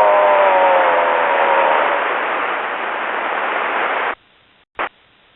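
Jet cockpit noise carried over an open radio or intercom mic: a loud rushing hiss with a whine that slowly falls in pitch, cut off abruptly about four seconds in as the mic is released, followed by a short squelch blip.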